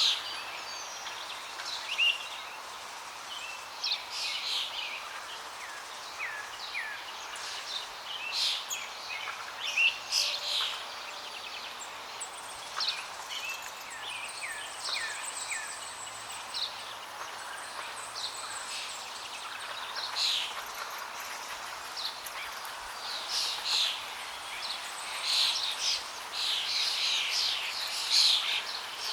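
Several songbirds chirping and calling over a steady rush of flowing water. The calls come and go throughout, with a thin high trill about halfway through, and grow busier in the last several seconds.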